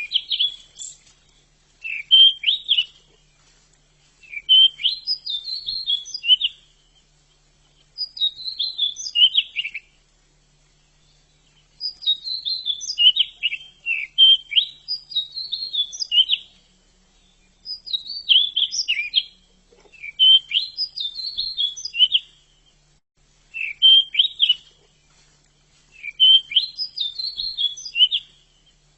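Pied bushchat (decu) singing: a string of short warbled phrases, each a second or two long, repeated every two to three seconds with brief pauses between.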